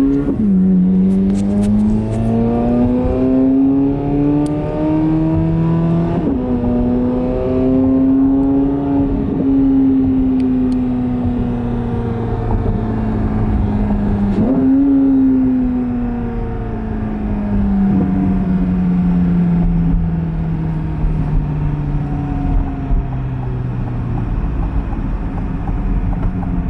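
Chevrolet Corvette C8 Z06's 5.5-litre flat-plane-crank V8 accelerating, its pitch climbing and dropping sharply at gear changes just after the start and about six seconds in. It then eases off with the pitch falling slowly, and gives one short rev blip about 14 seconds in, typical of a downshift.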